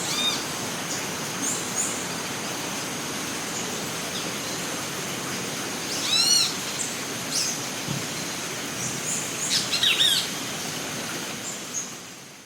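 Rainforest ambience: a steady hiss like rain or running water under a high steady whine, with repeated bird calls, loudest about six seconds in and again around ten seconds. It fades out near the end.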